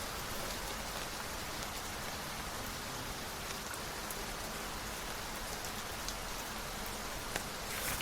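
Steady rain falling: an even, dense hiss with a few scattered sharper drop ticks and a brief louder swish near the end.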